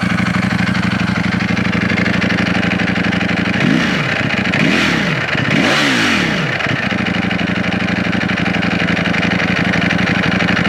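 Ducati Panigale V4S's V4 engine idling through its stock exhaust. It is blipped twice in quick succession, revs rising and falling each time, about four to seven seconds in, then settles back to a steady idle.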